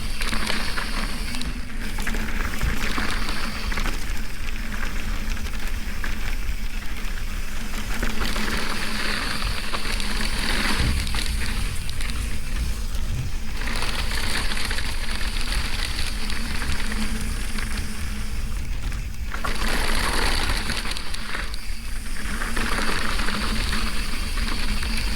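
Wind rushing over a rider-mounted camera's microphone on a fast downhill run, with a constant low rumble and a hissing rush that swells and fades every few seconds.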